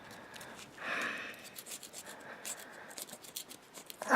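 Carbon being scraped by hand off an AMC 4.0 piston: a run of short, scratchy scrapes and clicks, with one longer scrape about a second in.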